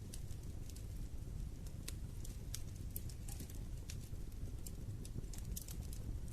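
Wood fire burning in a fireplace, crackling: scattered short sharp pops and snaps over a steady low rumble of flame.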